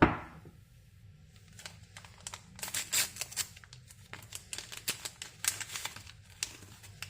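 A sharp knock, then a run of crisp, irregular crinkling and rustling as something is handled.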